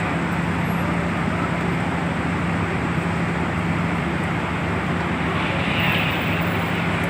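Passenger ferry's engines running with a steady drone, a constant low hum under a wide rushing noise.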